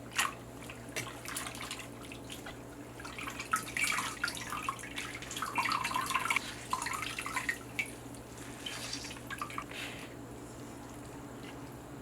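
Irregular dripping and splashing of water with soft wet squelches, as wet boiled radish greens are handled by hand over a sink or bowl.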